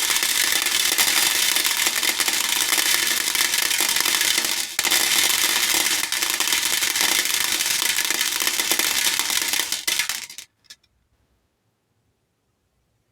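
Many hair beads pouring into a bowl: a dense, continuous rattle of small clicks that breaks briefly about five seconds in and stops about ten seconds in, followed by a couple of single clicks.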